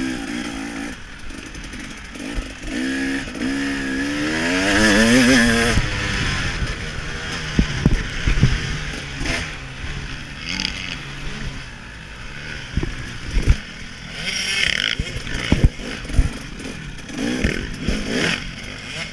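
KTM 300 XC-W two-stroke dirt bike engine heard from on the rider, revving up and down; the pitch climbs hard about four to five seconds in. After that it runs under a rush of wind noise with scattered sharp knocks.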